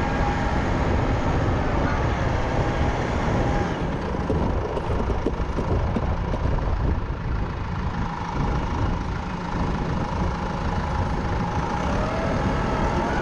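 Engine of a compact snow-clearing tractor running steadily while it works the snow.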